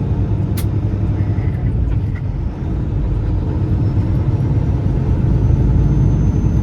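Peterbilt semi-truck's diesel engine running steadily under a low rumble of road noise on a bumpy gravel road, with one sharp click a little over half a second in.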